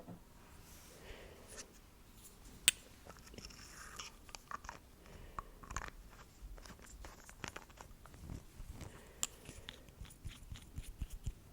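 Close-miked ASMR trigger sounds: an irregular run of small clicks, taps and crackles, with one sharp click about two and a half seconds in.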